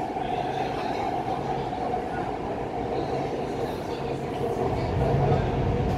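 Type B metro train built by CRRC Zhuzhou running between stations: the steady rumble of wheels and running gear with a steady whine, growing louder and deeper about five seconds in.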